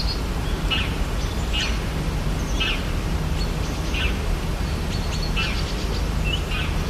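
Rainforest ambience: short bird chirps repeating about once a second over a steady low rumble.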